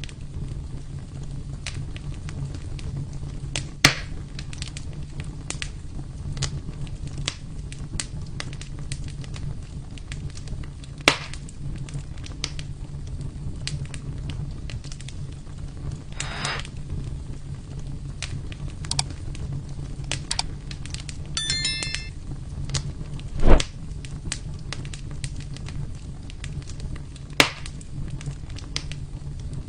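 Wood fire burning in a fireplace, crackling continuously over a steady low rumble, with a few loud sharp pops; the loudest pop comes about two-thirds of the way through.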